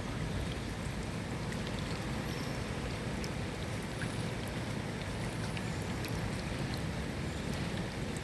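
Steady rain falling: a continuous hiss with scattered individual drops ticking, over a low rumble.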